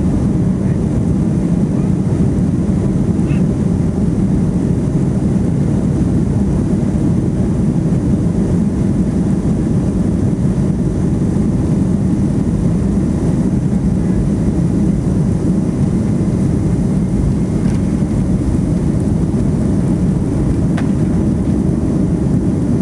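Steady cabin roar of a Boeing 757-200 in flight, its Pratt & Whitney PW2037 engines and the airflow over the fuselage making an even, deep rush with no changes.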